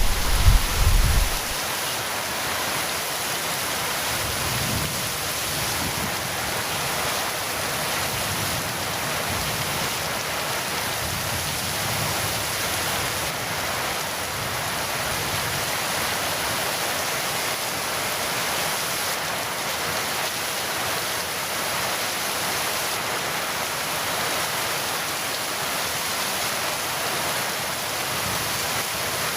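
Heavy rain falling in a steady hiss. A low rumble of thunder dies away in the first second and a half.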